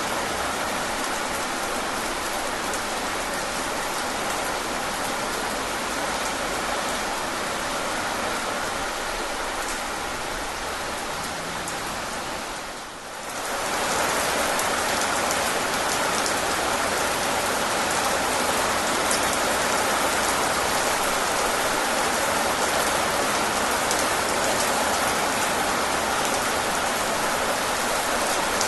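Steady rain falling and pattering on surfaces. About halfway through it dips briefly and comes back a little louder.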